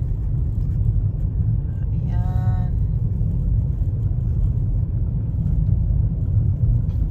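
Steady low rumble of a car driving slowly on a snow-covered road, heard from inside the cabin. A brief pitched tone sounds about two seconds in.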